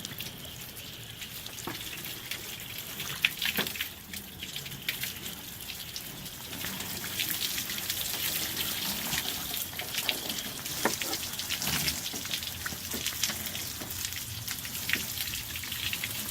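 Water from a garden hose spraying onto a pickup truck's body and splashing off it, a steady hiss with scattered drips, growing a little louder about six seconds in.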